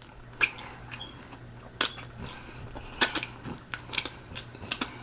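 Close-miked eating: irregular wet mouth clicks and smacks of chewing, with a few sharp pops standing out.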